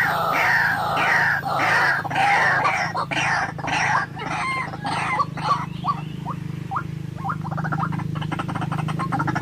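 White-breasted waterhen calling: a run of harsh, repeated croaks about two a second. About six seconds in they turn into short rising notes, then a fast rattling trill near the end.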